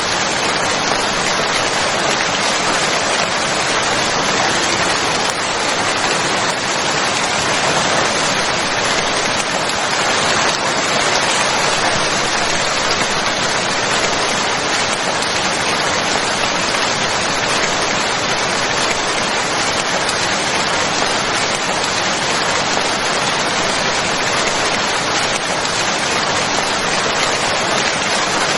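Steady rain falling, an even hiss of drops with no breaks or changes in level.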